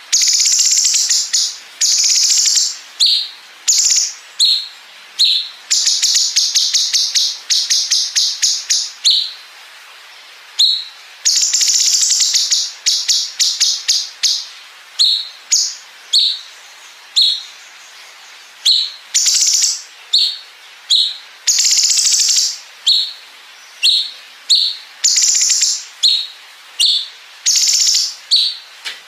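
A blue-winged leafbird (cucak cungkok) singing loudly and continuously. Short high notes come about once a second, alternating with long rapid rattles of one to two seconds each, mimicking a bren cicada.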